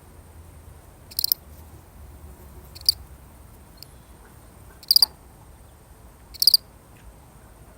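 A single cricket chirping: four short chirps spaced about one and a half to two seconds apart, each a quick run of a few high-pitched pulses.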